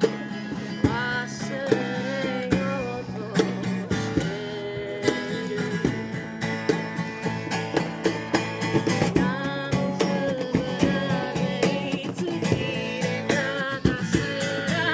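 Acoustic guitar music, strummed and picked, with a voice singing the melody over it.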